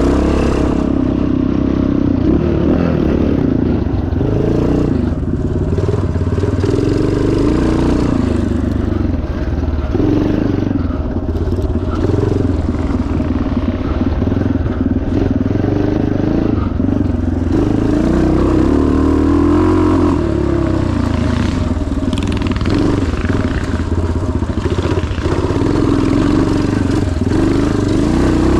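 1977 Yamaha TT500's single-cylinder four-stroke engine running hard off-road, its pitch rising and falling again and again as the throttle opens and closes, with rattling over rough ground.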